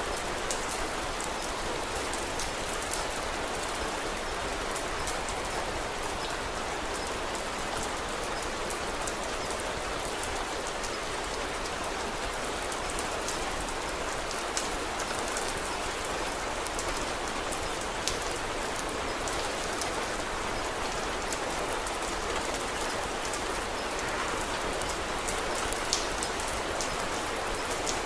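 Steady rain falling, with scattered sharp little clicks through it.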